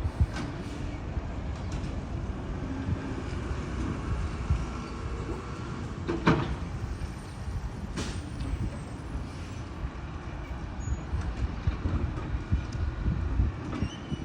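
Garbage truck engine rumbling steadily, with a sharp metallic clank about six seconds in and another about two seconds later.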